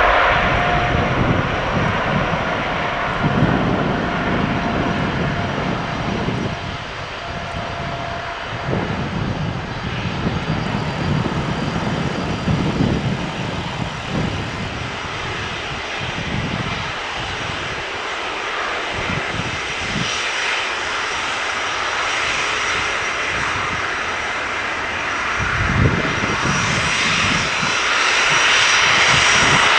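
Boeing 777 jet engines running with a steady roar, growing louder near the end as a high whine builds in.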